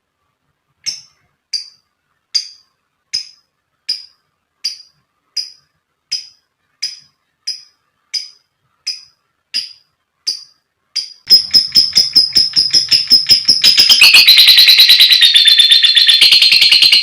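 Lovebird calling: a string of short, sharp, high chirps evenly spaced about three-quarters of a second apart. About eleven seconds in they give way to a loud, rapid, continuous chattering trill that gets denser a few seconds later, the long chatter lovebird keepers call ngekek.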